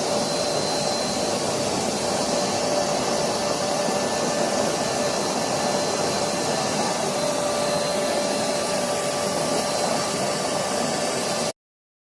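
Waste-engine-oil furnace (bhatti) running with its air blower, a steady rushing noise with a faint steady whine. It cuts off suddenly near the end.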